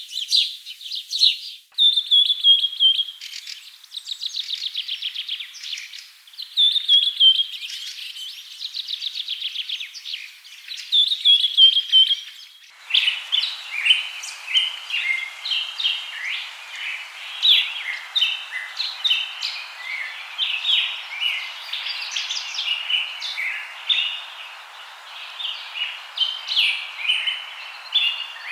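Birds singing: repeated trilled phrases that fall slightly in pitch, then about halfway through an abrupt change to a busier chorus of many short chirps over a steady hiss.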